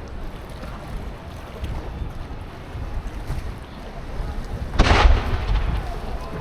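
Wind buffeting the microphone as a low, steady rumble, with one sudden loud boom almost five seconds in that fades over about a second.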